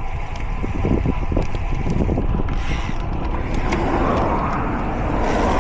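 Riding noise on a bicycle-mounted camera: wind rumbling on the microphone with tyre and road noise, broken by small rattles and clicks from the bike. A louder hiss builds about two-thirds of the way in.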